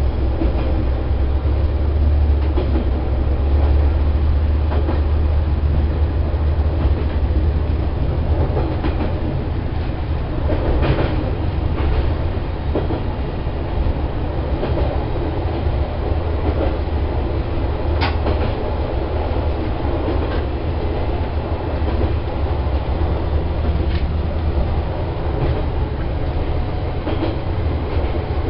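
Diesel railcar running steadily along the track, heard from inside the cab: a low engine and running drone with occasional sharp clicks of the wheels over rail joints.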